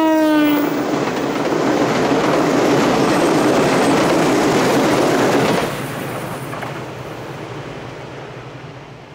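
JR 381 series electric train passing close by at speed: a horn blast ends within the first second, its pitch dropping as the cab goes past, then the wheels and running gear rumble loudly along the rails. About five and a half seconds in the noise drops and fades away as the train recedes.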